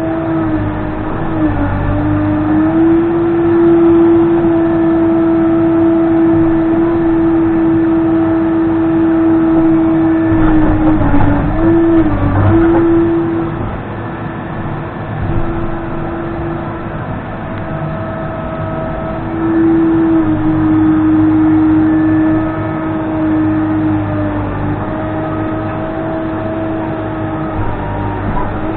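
Case 580N backhoe's diesel engine running at working revs, its pitch mostly steady but sagging briefly a few times, around a second in, midway and near the end, as it takes load.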